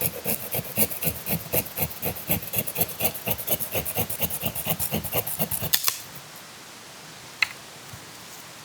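Small hand saw cutting through wood in quick, even back-and-forth strokes, about seven a second, stopping about six seconds in. A single sharp click follows about a second and a half later.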